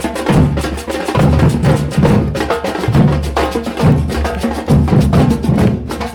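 Parade drumming: a fast run of sharp, wood-like clacks over a heavy low drum beat that returns a little more often than once a second.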